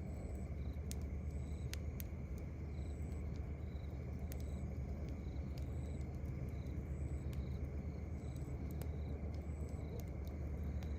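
Wood campfire crackling, with irregular sharp pops over a steady low rumble. Short high chirps repeat about once a second throughout.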